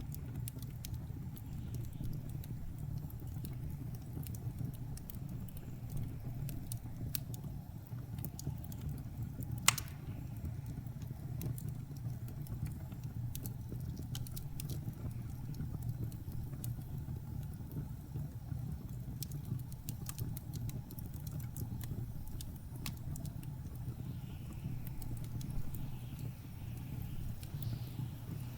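Wood fire crackling in a fireplace, with scattered sharp pops and one louder snap about ten seconds in, over a steady low rumble of blizzard wind.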